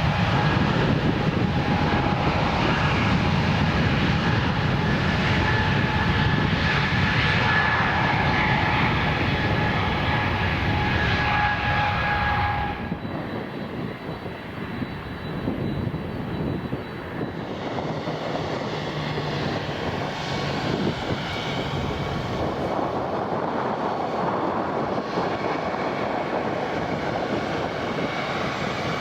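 Airbus A220 jet airliner taking off, its Pratt & Whitney geared turbofans running with a loud roar and a steady two-note whine. The whine cuts off about 13 seconds in. From about 17 seconds in, a landing Airbus A321 jet's engines are heard with a fainter, higher whine.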